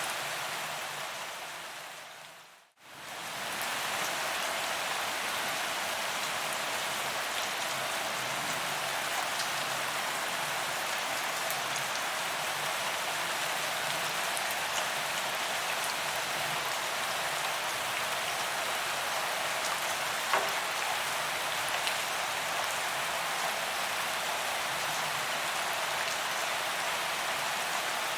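Heavy rain falling on a paved promenade: a steady hiss of drops hitting the pavement, with scattered small ticks. The sound fades out to near silence about two and a half seconds in and swells back within a second.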